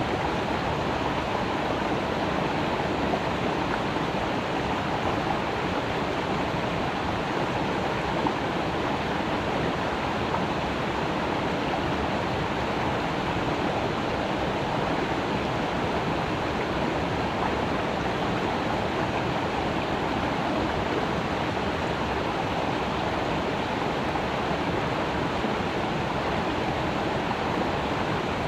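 A creek flowing and splashing over rocks: a steady, even rush of water.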